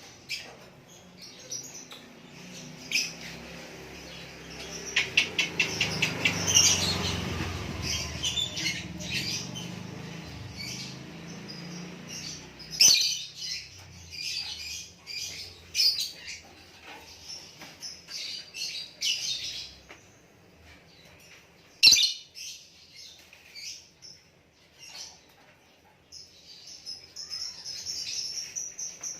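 A small songbird chirping in short, high calls, with a fast run of ticking notes a few seconds in and a long high trill near the end. A low rumble swells in the first half, and two sharp clicks stand out.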